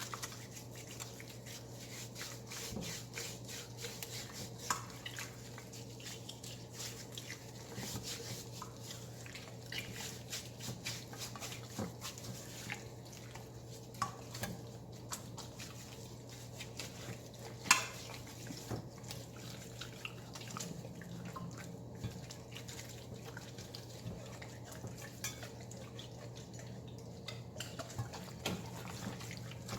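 Hands rubbing seasoning into a raw whole chicken in a baking pan: soft wet squishing with many small clicks, and one sharper click about 18 seconds in, over a steady low hum.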